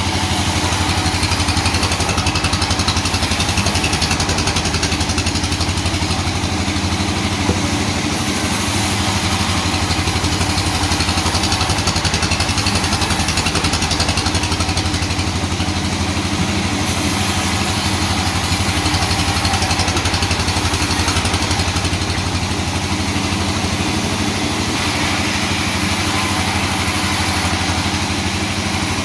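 Sawmill machinery running steadily with a low engine-like hum, and a high rushing noise that swells and fades every few seconds.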